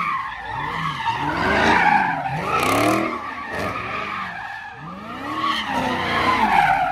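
A car doing donuts: its engine revving up and down over and over, about once a second, while the tyres squeal steadily on the pavement.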